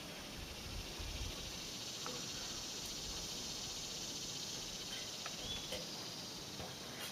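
Steady high-pitched insect chorus, an even hiss-like drone with a few faint clicks over it.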